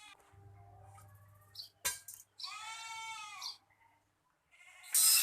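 An animal call, bleat-like and about a second long, with a faint low hum underneath. Near the end a loud, harsh rasping tool noise starts up.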